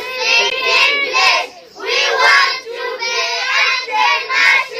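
A group of children's voices singing together, many overlapping high voices, with a short break about a second and a half in.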